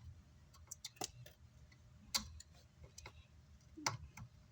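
Scattered light clicks and taps, about half a dozen spread irregularly, of small hand tools working on the amplifier's circuit board.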